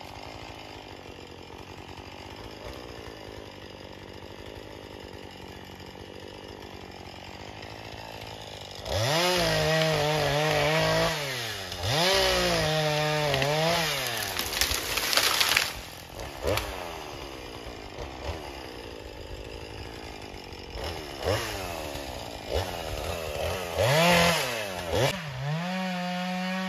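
Chainsaw idling, then about nine seconds in opened up to full throttle and cutting wood in several bursts. Its pitch dips under load and recovers, easing back toward idle between cuts.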